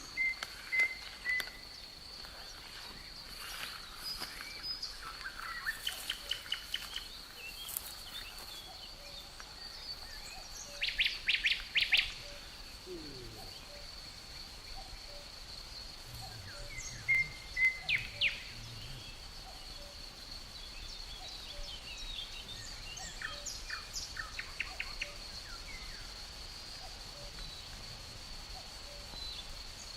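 Forest birdsong: several birds giving short chirping and trilling phrases, loudest twice near the middle, over a steady high-pitched chirring of crickets.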